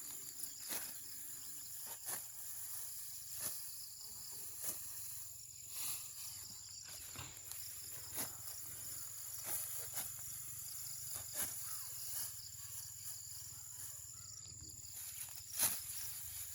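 Field insects, crickets among them, trilling steadily in a rural field, with sharp snaps that come at an even rhythm of about one every second and a quarter.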